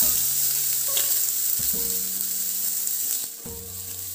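Sliced onions sizzling as they land in hot oil in a non-stick pan, stirred with a spatula that scrapes and taps against the pan. The sizzle starts loudly and eases a little after about three seconds.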